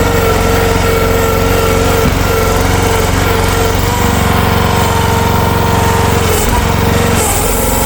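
Future FT15 mini excavator's engine running steadily with a higher steady whine over it, the pitch sagging briefly twice near the end as the machine is worked.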